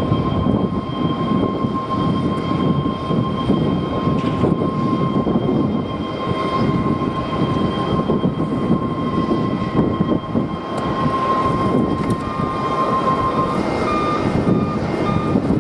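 Jet airliner engines running with a steady high whine over a continuous rumble, heard through strong wind buffeting the microphone.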